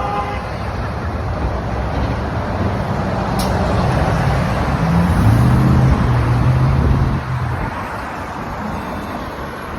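Street traffic noise, with a motor vehicle's engine growing louder, loudest about five to seven seconds in, then fading as it passes.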